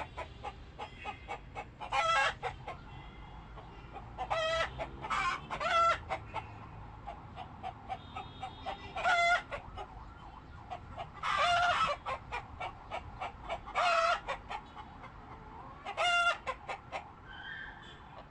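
Chickens clucking and calling, with short, loud calls every second or two over a scatter of small clicks and pecks.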